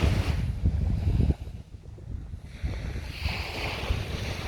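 Wind buffeting the microphone over surf washing onto a sandy beach. The rumble eases about a second in, and the hiss of a wave swells near the end.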